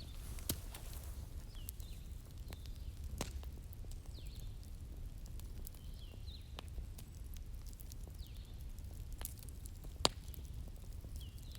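Wood fire crackling over a steady low rumble, with scattered sharp pops, the loudest about ten seconds in, and faint short high squeaks every second or two.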